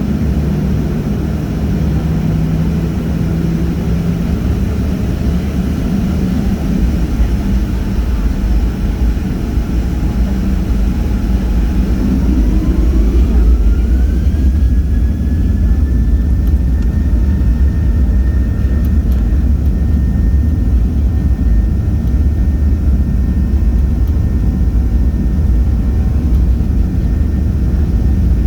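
Airliner engines running with a loud, steady low rumble. About twelve seconds in, a whine rises in pitch and then holds at a high steady note as the engines spool up to takeoff power.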